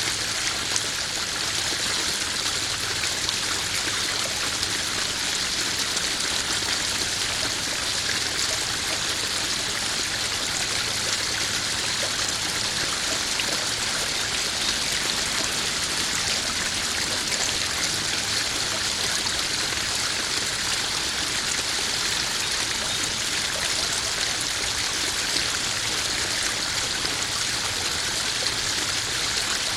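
Small garden pond waterfall: water splashing and trickling steadily into a koi pond, an even rushing hiss with many fine drips and splashes.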